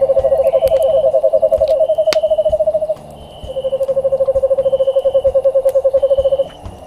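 Owl calling in rapid trills of low, even notes, about a dozen a second, two voices at slightly different pitches overlapping, breaking off briefly about three seconds in and starting again. A sharp campfire crack sounds about two seconds in.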